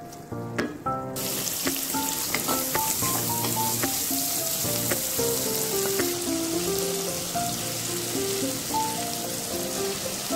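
Peas and carrots frying in a pot: a steady sizzling hiss that starts suddenly about a second in. A melody plays in the background music throughout.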